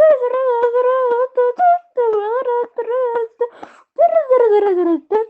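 A person vocally imitating a song with wordless mouth sounds: short repeated syllables held mostly on one high pitch, with a long falling slide in pitch about four seconds in.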